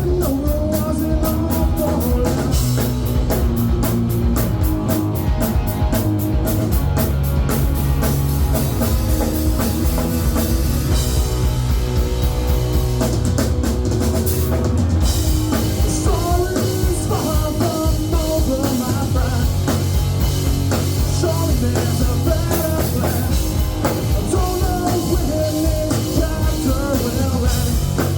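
Rock song with drum kit, electric guitar, bass and singing, playing at a steady loud level.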